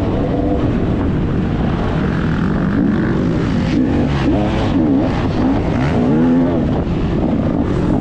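Motocross dirt bike engine revving up and down as it is ridden, its pitch rising and falling again and again, over a steady rush of wind noise.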